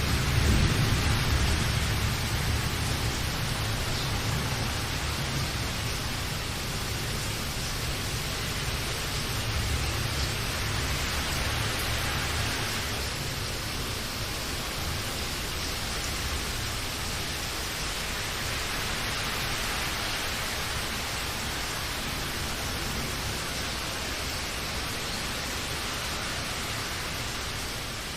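Steady heavy rain falling, an even hiss, with a low rumble of thunder dying away over the first several seconds.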